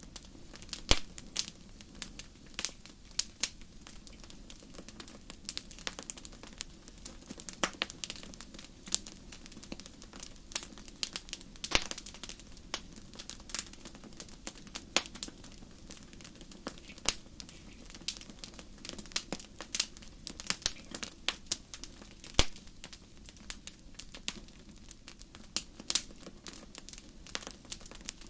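Fireplace fire crackling: irregular sharp pops and snaps, often several a second, over a low, steady rush of flame.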